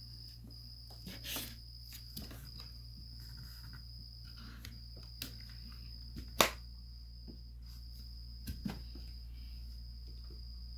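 A cricket trilling, a steady high-pitched tone broken by short gaps, over a constant low hum. Scattered light knocks and one loud sharp knock about six seconds in.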